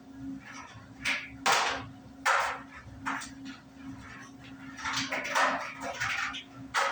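Euhomy compact clothes dryer running with a steady low motor hum, which the owner says blows no air out of the duct. Several short noisy rustling bursts come over it, the loudest events, twice in the first half and a cluster near the end.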